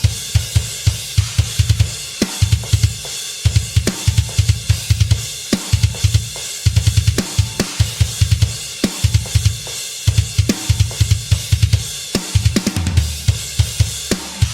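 Close-miked acoustic drum kit played in a steady groove, with fast runs of bass drum strokes under snare hits and a wash of cymbals and hi-hat.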